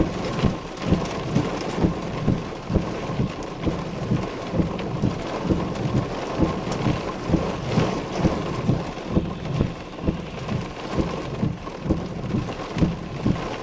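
Heavy thunderstorm rain drumming on a vehicle, heard from inside: a dense wash of rain with many irregular low thumps, several a second, as the rain-wrapped storm core passes overhead.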